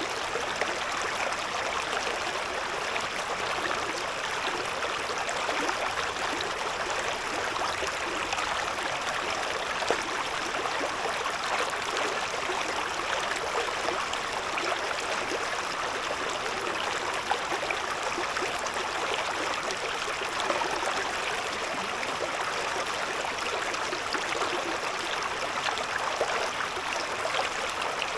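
A shallow river babbling and trickling over stones, a steady rushing murmur with small splashes and gurgles throughout.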